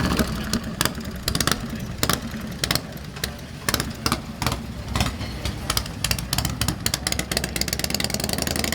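Motorcycle engine idling unevenly: a low rumble with sharp, irregular clicks over it.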